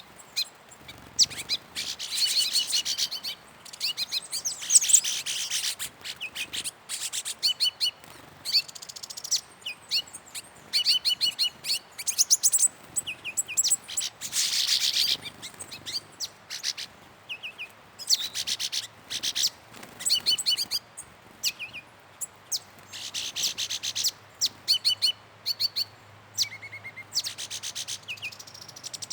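Several songbirds chirping and calling in Atlantic Forest, with short, quick high-pitched chirps and trills throughout.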